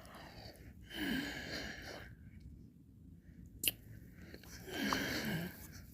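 Close-miked wet mouth sounds of someone eating ice cream: two slurping licks about a second long, one near the start and one near the end, with a sharp click in between.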